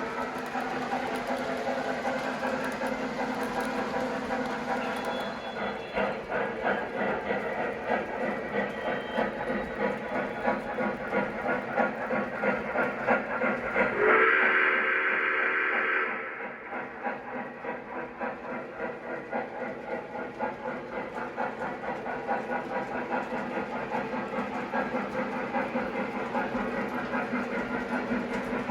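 Model train running on a layout: a steady hum with a fast, even rhythmic clatter, and a louder pitched blast for about two seconds halfway through.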